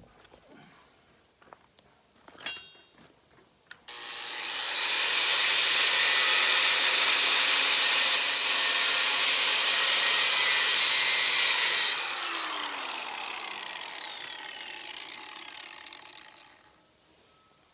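Electric grinder switched on and grinding steel for about eight seconds with a high, hissing whine. It is then switched off and spins down, fading over several seconds. A sharp tap comes just before it starts.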